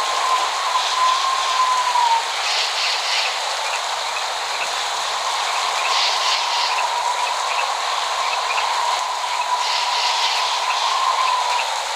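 Steady rain, with a thin whistling tone running through it and short chirping calls every few seconds.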